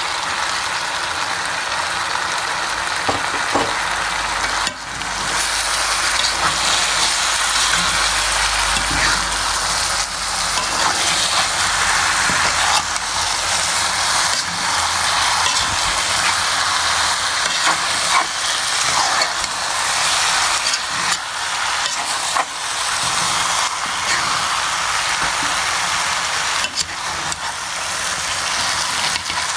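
Food sizzling as it fries in hot oil in a pan while it is stirred: a steady hiss with light scraping ticks, briefly breaking off about five seconds in.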